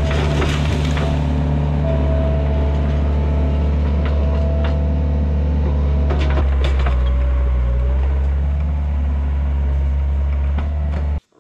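Takeuchi TL130 track loader's diesel engine running steadily at high revs while working, with a few sharp cracks and knocks mixed in. It cuts off suddenly near the end.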